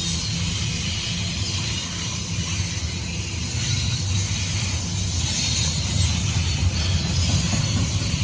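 Union Pacific intermodal freight train rolling past: a steady low rumble of wheels on rail with a high hiss over it, growing slightly louder about five seconds in.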